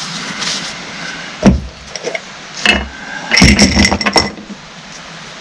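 Metal hydraulic pump parts being handled and set down on a bench: a knock about one and a half seconds in, another shortly after, then a brief clatter of metal with a ringing note.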